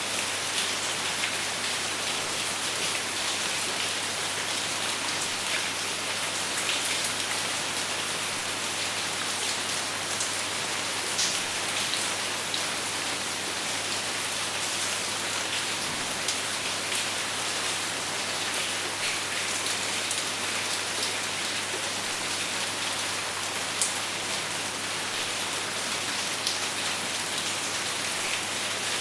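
Steady rain without thunder, with drops tapping on a surface and an even hiss, sprinkled with brief sharper drop ticks.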